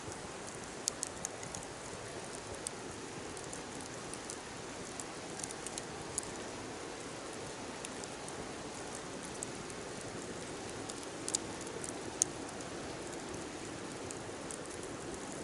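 Wood bonfire burning: a steady hiss with scattered sharp crackles and pops, the loudest about a second in and near twelve seconds.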